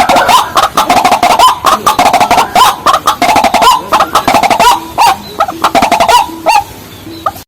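Calls of white-breasted waterhens and watercocks: fast, repeated clucking notes with short upward hooks, many overlapping. The recording cuts off abruptly at the end.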